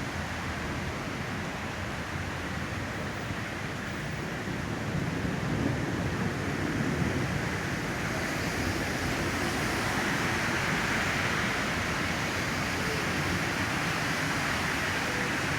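Steady rushing storm noise of wind and rain, growing louder from about five seconds in.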